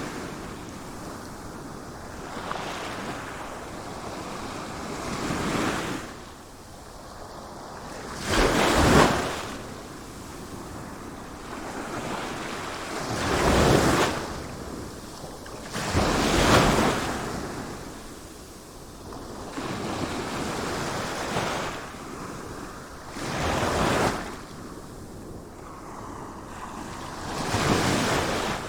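Sea waves breaking and washing in, a swell of rushing noise every few seconds, loudest about nine, fourteen and sixteen seconds in.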